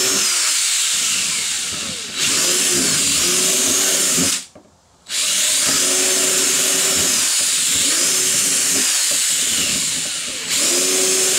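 Electric drill boring starter holes for a jigsaw through the plastic lid of a camping cooler. Its motor whine rises and falls in pitch over and over. It stops for about half a second just after four seconds in, then runs on.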